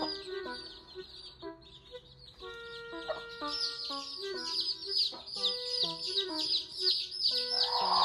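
A brood of chicks peeping continuously in rapid high chirps, over background music with held notes. A louder rushing noise swells near the end.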